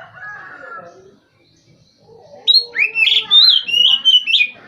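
Oriental magpie-robin (kacer) singing a loud burst of clear whistled notes that glide up and down, starting about halfway in and lasting about two seconds. A lower, fainter call fades out in the first second.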